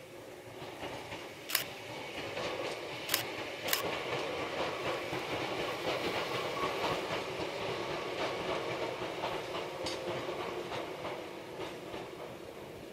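Hakone Tozan Railway electric train running past, wheels clattering over the rail joints, with three sharp clicks in the first four seconds. The sound swells to its loudest around the middle and fades away toward the end.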